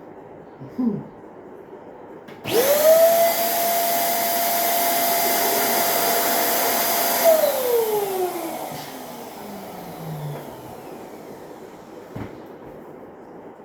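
Electric balloon inflator switched on: its motor whines steadily with a rush of air for about five seconds, blowing up a party balloon. It is then switched off and winds down in a falling whine over about three seconds. A short click follows near the end.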